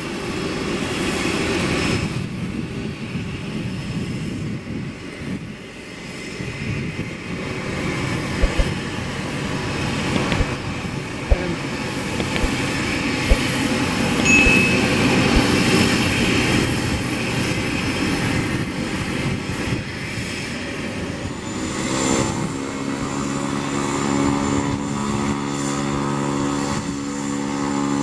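Airliner engines running loud and steady, a deep rumbling roar. Several steady humming tones join in about three-quarters of the way through.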